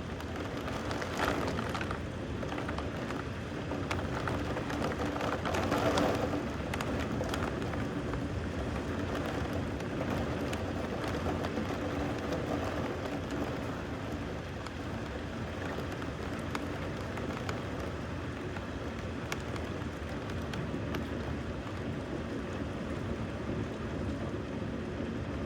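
Steady rain falling, with a brief louder swell about six seconds in.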